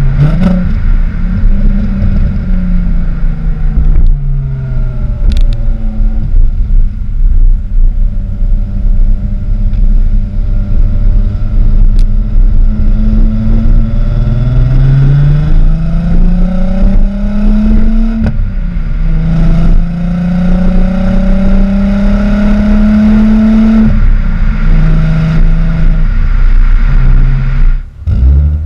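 A VW GTI's 12-valve VR6 engine running through a Techtonics cat-back exhaust with a Magnaflow muffler. The pitch falls at first, then climbs slowly over several seconds under acceleration and holds steady, before dropping sharply about three-quarters of the way through, with another short dip near the end.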